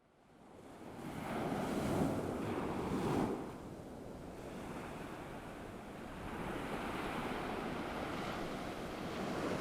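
Ocean waves washing onto a shore, fading in from silence. A wave swells and breaks in the first few seconds, then the surf settles into a steady wash that builds again near the end.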